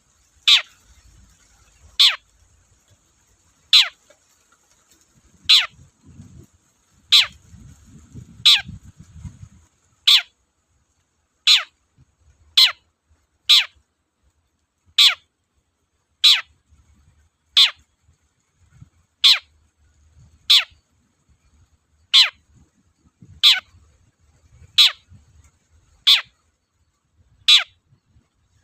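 Long-tailed shrike (cendet) calling: a single sharp note falling steeply in pitch, repeated about twenty times at intervals of one to one and a half seconds.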